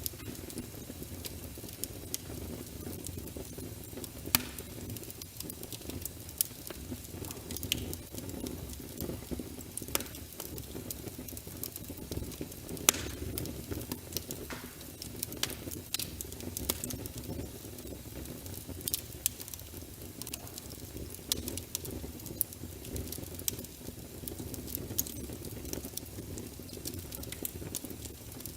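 Wood fire of burning logs in a fireplace: a steady low rumble with frequent irregular crackles and pops, a few sharper pops standing out.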